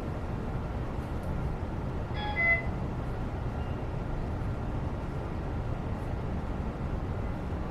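Steady low rumbling background noise, with one short multi-tone beep or toot about two seconds in.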